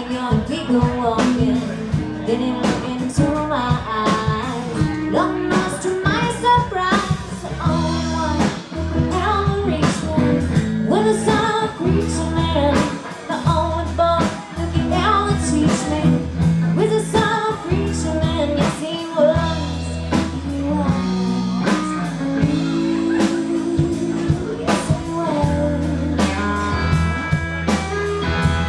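Live blues-rock band playing, with a singer over electric guitar, bass and drums.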